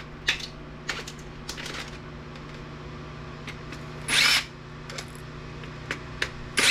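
Cordless power screwdriver run in one short half-second burst about four seconds in and again at the very end, backing out screws from a DVD player's casing, with small clicks and taps of handling between the bursts.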